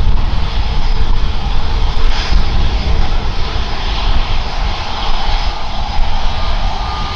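Airliner engines running loud as a plane passes near the runway: a deep rumble under a steady rushing roar.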